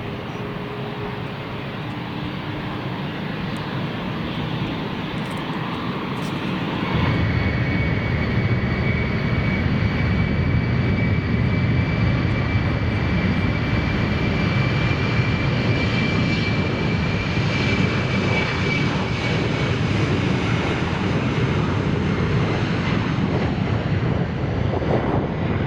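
Airliner engines at high power, the noise building and then jumping louder about seven seconds in, with a steady high whine over it for about twelve seconds.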